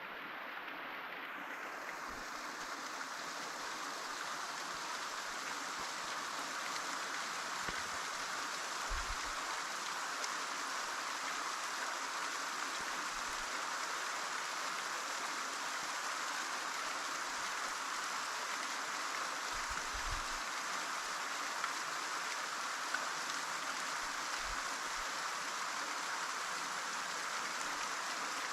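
Waterfall: a steady rush of falling water, with a few brief low thuds.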